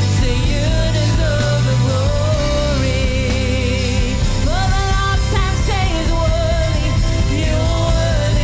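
Contemporary Christian worship song with a vocalist singing a long-held melody line with vibrato over sustained keyboard chords and bass.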